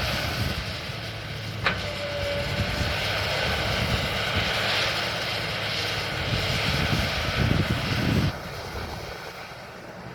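Excavator's diesel engine running steadily as it works a dirt pile, with a sharp clank about 1.7 s in. The engine grows louder for a second or so and then drops off suddenly just after 8 s.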